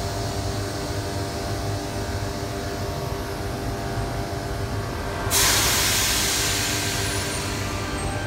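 Electric suburban train at a station platform, a steady hum and rumble with several held tones. About five seconds in, a sudden loud air hiss starts and slowly fades, typical of a train's air brakes venting.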